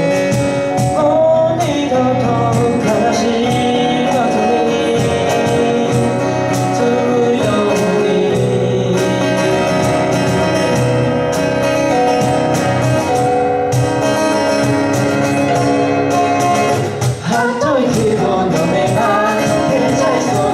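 Live band of guitar, drums and keyboard playing a pop song, with wordless or unclear sung voices over a steady drum beat.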